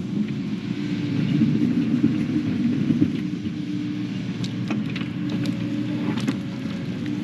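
Diesel engine of heavy digging equipment running steadily, with scattered sharp clicks and knocks of the machine working.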